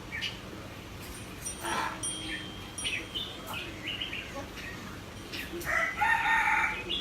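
Pet parrot making short whistles and squawks, then a louder drawn-out call starting near the end.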